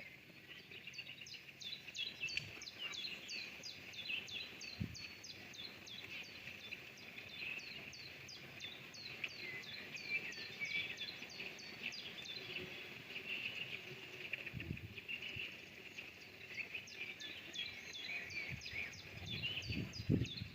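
Songbirds chirping and twittering in a dense run of quick, high, downward-sliding chirps. A few brief low thumps sound through it, the loudest near the end.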